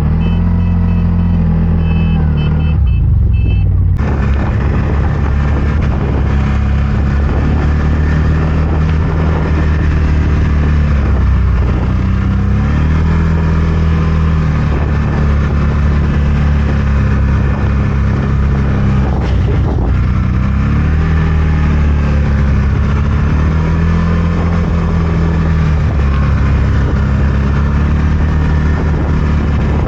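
CFMOTO Gen 3 1000's engine running steadily as it drives through deep snow, the engine note dropping and climbing back a couple of times as the revs change.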